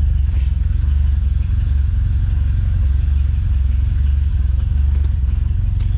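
1995 Mitsubishi Eclipse GST's turbocharged 2.0-litre four-cylinder engine idling with a steady low rumble.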